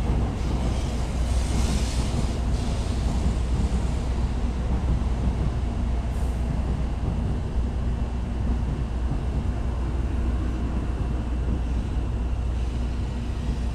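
Shinkansen train running past on a nearby track: a steady low rumble with hiss, brightest about a second or two in.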